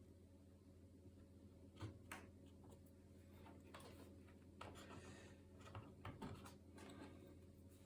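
Faint scattered clicks and light rubbing of small parts being handled during laptop work, over a steady low hum.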